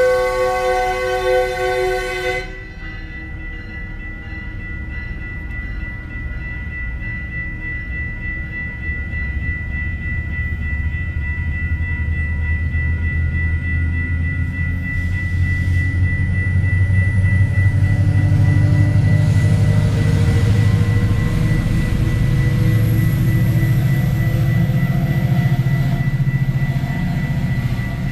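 Metrolink commuter train's horn sounding a chord that cuts off about two seconds in, then the train rolling slowly through the grade crossing, its low rumble building and loudest in the last third. A steady high ringing from the crossing's warning signals runs underneath.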